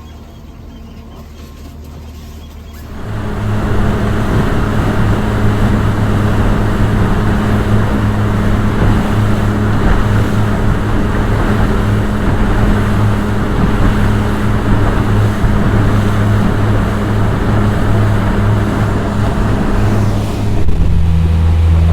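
Johnson outboard motor driving a small boat, a steady engine drone with rushing water and wind noise. It is quiet at first, then gets suddenly much louder about three seconds in, and its note drops lower near the end.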